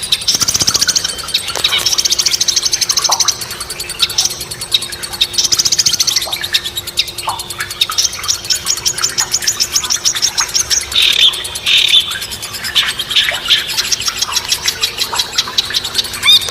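Birds singing in fast, high trills and sharp chirps, several songs overlapping, with a faint steady hum underneath from about a second and a half in.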